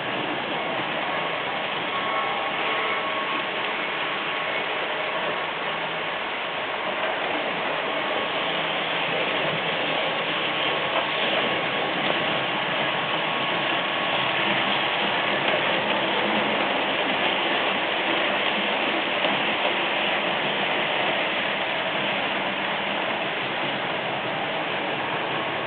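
Märklin H0 model train running on its track: a steady whirring rattle of the locomotive's motor and gears and the wheels over the rails, swelling slightly about midway.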